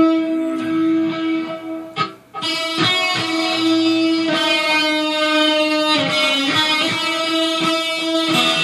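Electric guitar playing sustained notes and chords. It breaks off briefly about two seconds in, then carries on with repeated chord hits.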